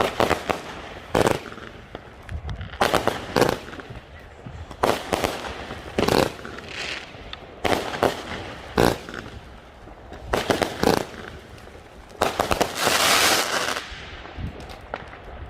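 Fireworks going off: a series of sharp bangs about every second, some in quick doubles, with a longer hissing burst of about a second and a half near the end.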